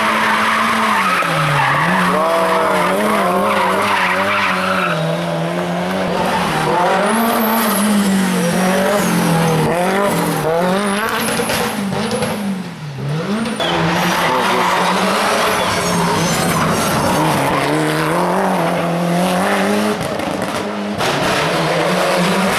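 Hill-climb race car engine revving hard, its pitch climbing and dropping over and over through gear changes and corners, with tyres squealing. The engine note falls away briefly about halfway through, then picks up again.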